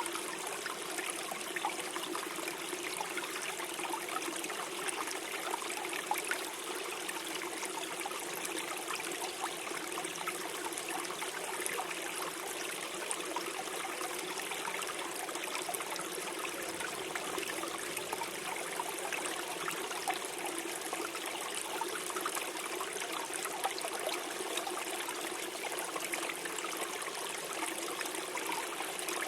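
Small forest stream flowing over stones, a steady gurgling and trickling of water.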